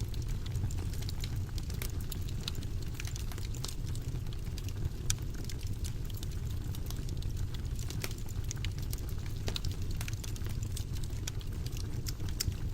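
Wood fire burning in a fireplace: a steady low rumble of flames with frequent sharp crackles and pops, one louder pop about five seconds in.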